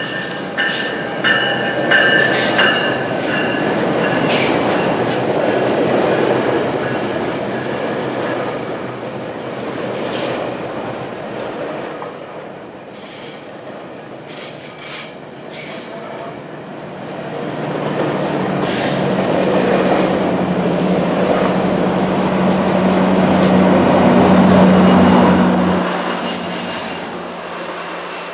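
GO Transit commuter train passing close by: the bilevel coaches run by with wheel and rail noise and a high, steady wheel squeal on the curve. About two-thirds of the way through, the diesel locomotive pushing at the rear passes; its engine drone grows louder, then cuts off sharply near the end.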